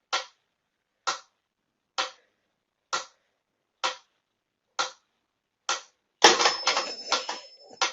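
Seven sharp clicks or taps, evenly spaced about a second apart, followed by a couple of seconds of busier clattering with several quicker clicks.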